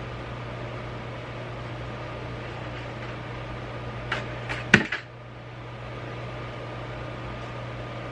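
A steady low hum in a small room, with three or four sharp clicks and knocks of a handled object about halfway through, the last the loudest.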